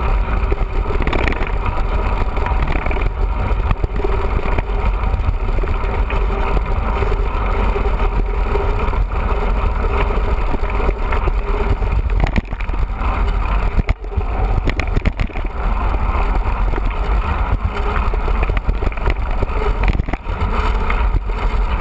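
Wind buffeting the microphone of a camera on a moving mountain bike, a steady low rumble, with a few sharp knocks and rattles from the bike a little past the middle.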